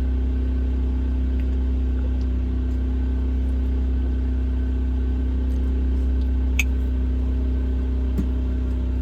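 Steady low engine hum running on without change, with a single sharp click about two-thirds of the way through.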